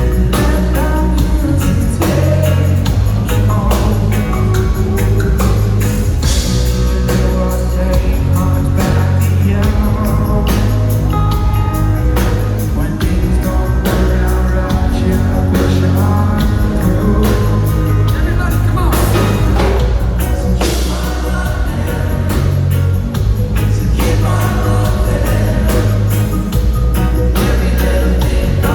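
Reggae band playing live: a heavy bass line and steady drum beat under guitar and sung vocals.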